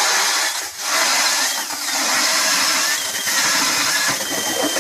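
Ice auger engine running steadily as it drills a hole through the lake ice, with a brief dip under a second in.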